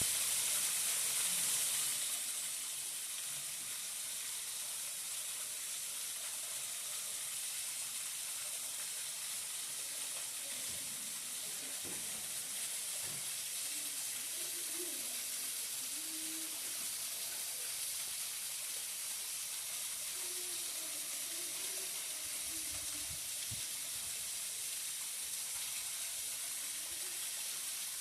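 Small garden waterfall running steadily: an even, hissing rush of falling water, slightly louder in the first two seconds.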